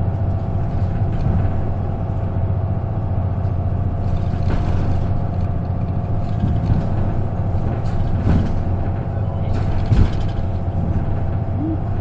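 Isuzu KK-LR233J1 city bus running, heard from inside the cabin: a steady low engine drone with a steady whine above it, and a few short knocks and rattles, the sharpest about ten seconds in.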